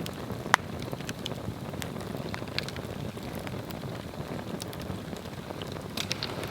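Swedish torch log fire burning, a steady rush of flame with scattered crackles and pops, one sharp pop about half a second in.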